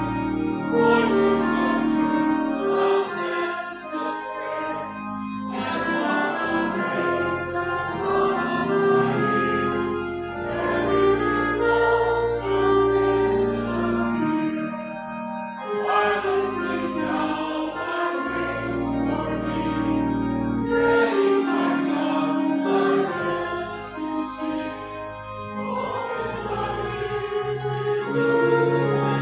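Congregation singing a hymn with organ accompaniment, in sustained notes that change every second or so over deep held bass tones.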